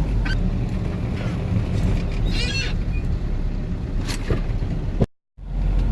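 Steady low rumble of a vehicle on the road, with a brief high squeak about two and a half seconds in. The sound cuts out abruptly for a moment near the end.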